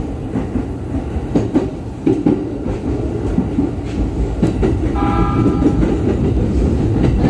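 JR East E231 series electric train running through a series of points, heard from inside the front car: a steady low rumble with irregular sharp clicks as the wheels cross rail joints and switches. About two-thirds of the way in, a steady multi-note tone sounds for about a second.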